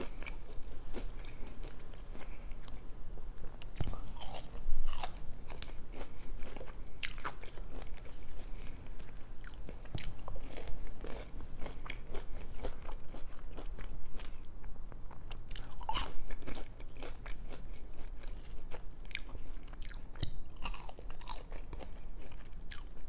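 Crispy baked crinkle-cut fries being bitten and chewed, with irregular crunches throughout.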